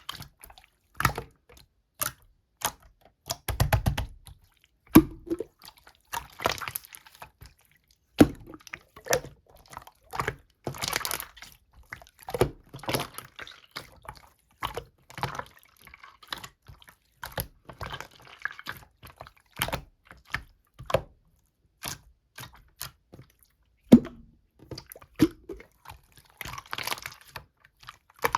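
Slime being squeezed, poked and stretched by hand, giving a steady run of irregular wet clicks, squelches and small crackling pops, with a few sharper pops along the way.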